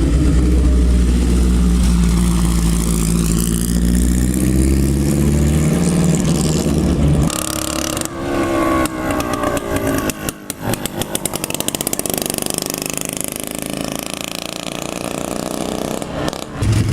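Vintage midget race car engines running and revving as the cars drive by, the pitch rising and falling. About seven seconds in the sound changes abruptly to another car whose engine runs rougher, with rapid crackling exhaust strokes.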